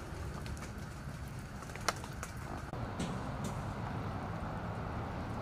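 Outdoor ambience in rain: a steady hiss and low rumble with scattered small ticks, one sharper tick about two seconds in.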